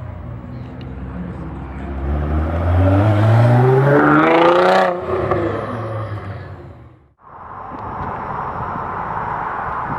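A supercar's engine accelerating hard, its pitch rising steadily for about three seconds, then dropping off sharply and dying away. After a brief gap, a steady rushing noise takes over.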